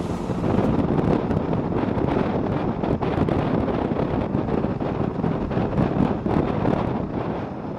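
Steady wind buffeting on the microphone of a moving motorcycle, with the rush of riding underneath.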